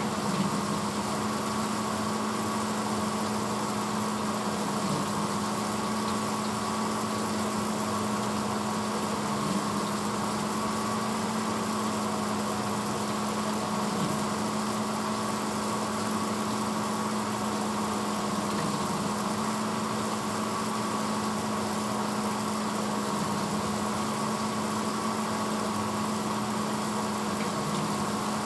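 1986 Hotpoint Potwasher dishwasher running mid-cycle: a steady motor hum with an even wash of noise, unchanging throughout.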